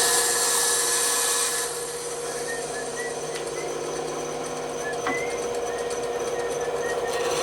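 Bandsaw running with a steady hum, its blade cutting through wood with a loud hiss for the first second and a half and again near the end.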